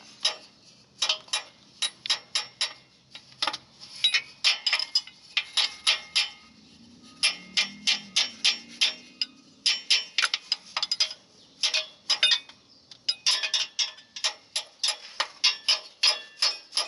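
Repeated sharp metal-on-metal taps, several a second in irregular bursts, as the starter motor of a 2006 Jeep is struck to free it. This is the fix for a no-start where the solenoid or starter is bad.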